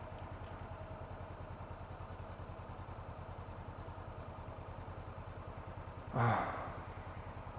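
2017 Honda CB500F parallel-twin engine idling with an even low pulse. A brief sigh-like vocal sound about six seconds in.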